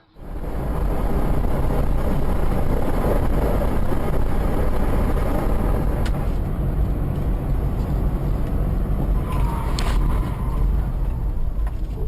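A moving car's steady engine and road rumble, loud and strongest in the low end. There is a sharp click about six seconds in and a short higher tone near ten seconds in.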